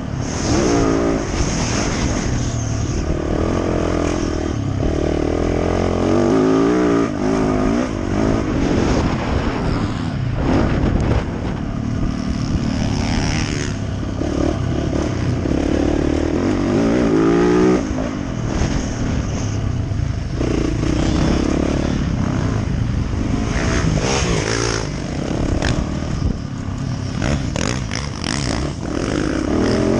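Yamaha YZ450F four-stroke single-cylinder dirt bike engine being ridden, revving up and dropping back again and again.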